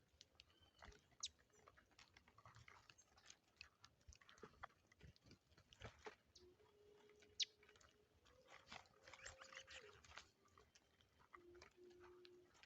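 Faint, scattered pecking and crunching of birds feeding on seed, with one short high chirp about seven seconds in. A faint steady low tone runs through the second half.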